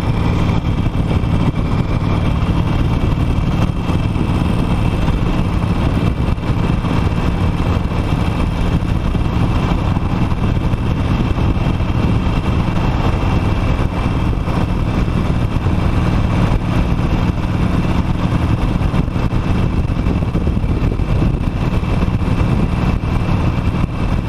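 Harley-Davidson Nightster's Revolution Max 975T V-twin engine running steadily while the motorcycle cruises.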